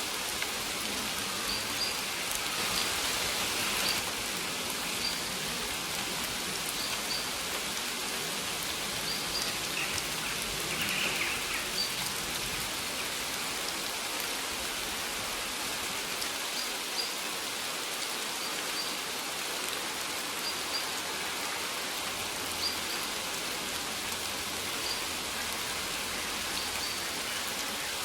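Steady rain falling, an even hiss, with short faint high chirps of birds every second or two.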